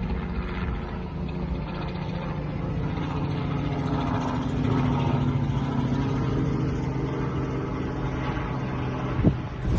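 Robinson R44 helicopter running steadily, its piston engine and rotor giving a constant hum at an even pitch.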